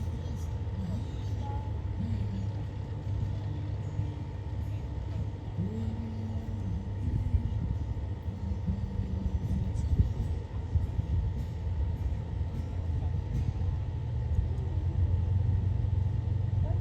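Light single-engine piston aircraft engine running, a steady low drone that grows louder near the end.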